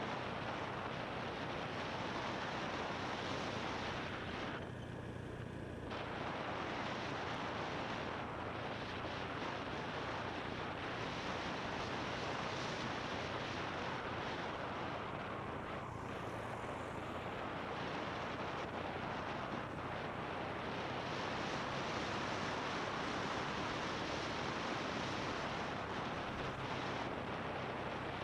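Wind rushing over the microphone of a moving motorbike, with the motorbike's engine running steadily underneath; the rush eases briefly about five seconds in.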